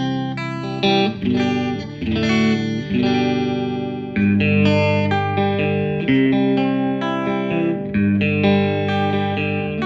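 Fender Stratocaster electric guitar through an amplifier, strumming chords on the neck and middle pickups together (the in-between 'quack' position). A new chord is struck about once a second and left to ring.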